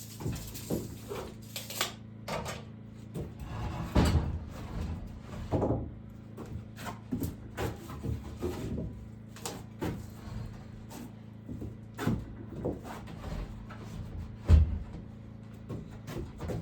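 Wood being handled and worked: irregular wooden knocks, clunks and scraping, with a heavier thump about four seconds in and another near the end.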